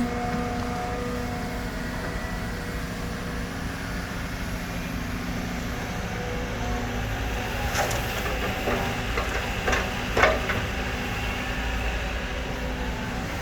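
Caterpillar 313D2 GC excavator's diesel engine running steadily while loading a truck, with a few sharp knocks near the middle of the stretch as the bucket and its load strike.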